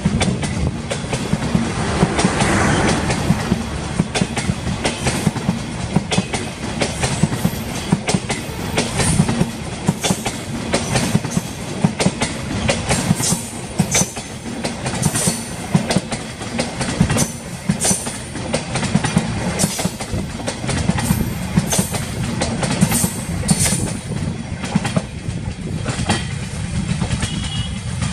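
Banalata Express intercity passenger coaches rolling past close by at speed: a steady heavy rumble with repeated clickety-clack of the wheels over the rail joints.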